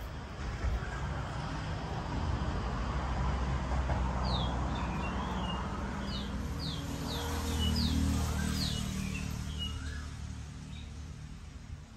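A bird giving a string of short, high, falling chirps, about half a dozen over a few seconds in the middle, over a low rumble that swells twice.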